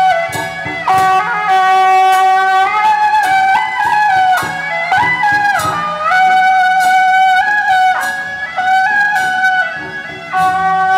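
Loud procession band music: a single wind instrument plays a melody with pitch slides over a steady low drone, with regular percussion hits.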